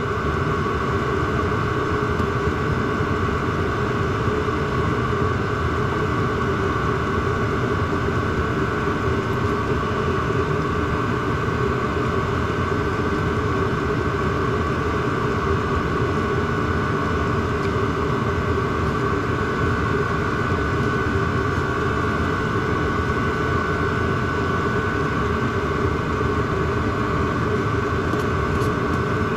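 Diesel parking heater running steadily: a constant drone of its combustion blower and burner, with a steady whine held throughout.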